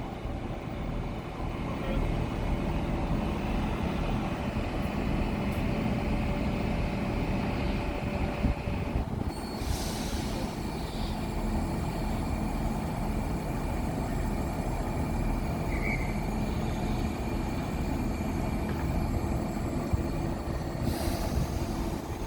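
Train running with a steady low rumble and a faint hum. Two brief hissing surges come through, one about ten seconds in and one near the end.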